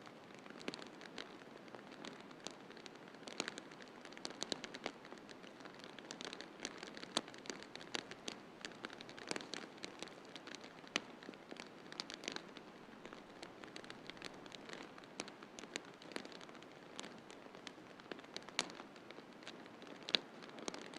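Wood fire crackling in a fireplace: frequent irregular sharp pops and snaps of varying loudness over a steady soft hiss.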